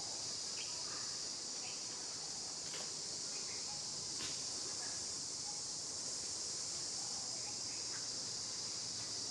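A steady, high-pitched insect chorus of crickets or cicadas, with a few faint short chirps scattered through it.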